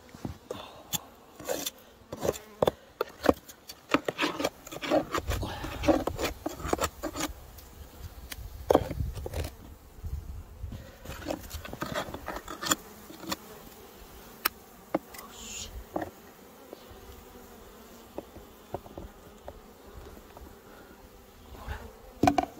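Honeybees buzzing at the hive, a faint steady hum under many sharp knocks, taps and scraping from handling the hive. The knocking is busiest in the first half and thins out later.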